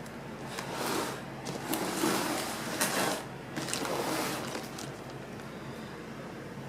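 Cardboard ceiling fan box being handled and turned over on a surface, with several scraping and rustling sounds over about four seconds.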